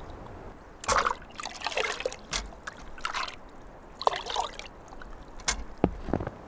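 Liquid trickling and splashing in several short, irregular spells.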